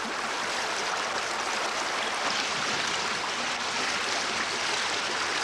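Steady rush of flowing water, as water is let out of the lagoons to lower their level.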